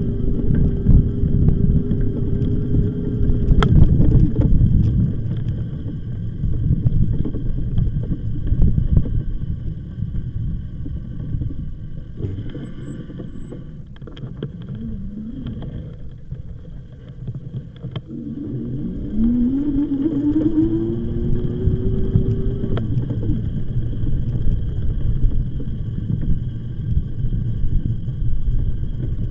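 Riding on an e-bike: a low rumble of wind on the microphone and tyres, with the electric motor's whine. The whine drops away for a while, then comes back with a rising pitch as the motor picks up speed, holds, and cuts off.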